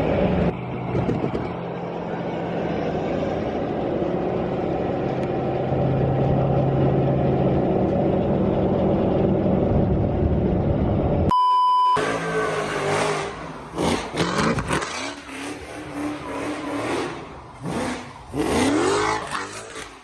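Car engines running and revving, with a short, clean electronic beep about eleven seconds in. After the beep the sound is choppier, with engines revving up in rising sweeps near the end.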